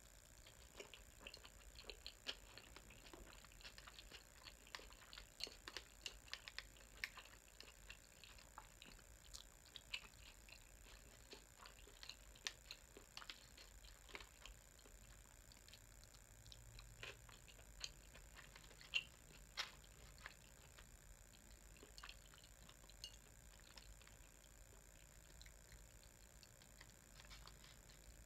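Faint, wet chewing of a mouthful of sushi, heard as irregular soft clicks and smacks. They come most often in the first half and thin out later, with one sharper click a little past the middle.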